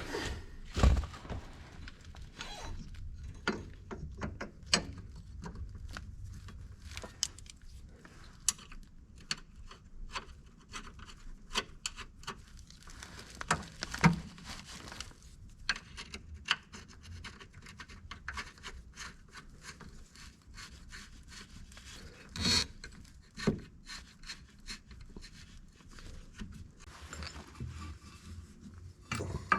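Scattered clicks, knocks and rubbing of hand work with tools and parts, with a few louder thumps and a faint low hum underneath.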